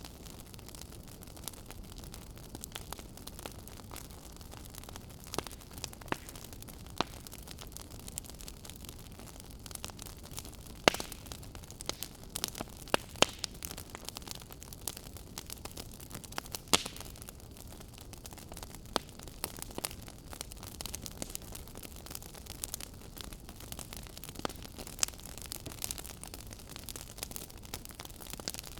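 Wood fire crackling in a fireplace: a steady low hiss with frequent sharp pops and snaps at irregular intervals, a few louder ones near the middle.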